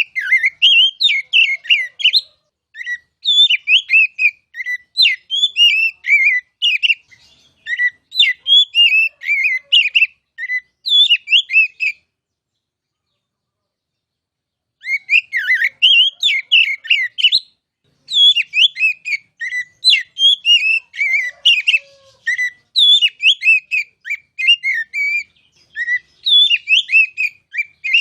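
Oriental magpie-robin (kacer) singing rapid, varied whistled phrases, stopping for about three seconds near the middle and then carrying on.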